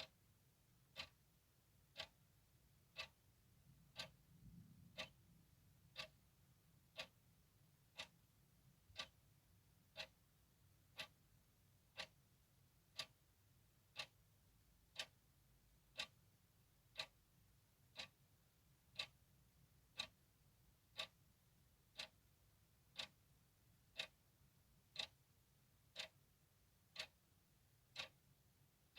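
Clock ticking steadily, one sharp tick a second, with a faint low rumble about four seconds in.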